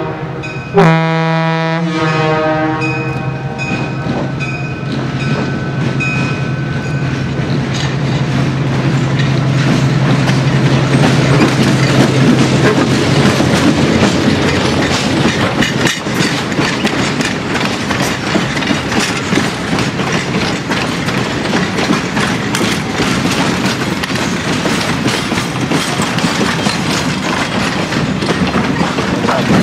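Diesel locomotive sounds its air horn in a short blast about a second in, then runs past with a steady low engine drone. After that, a string of passenger coaches clatters over the rail joints.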